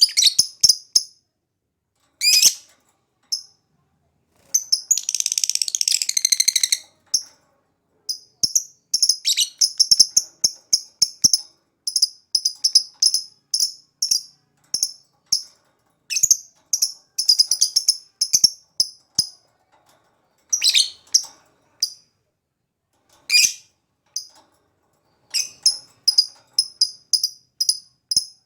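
Lovebird chattering: clusters of rapid, high-pitched chirps separated by short silent gaps, with one longer unbroken trill about five seconds in.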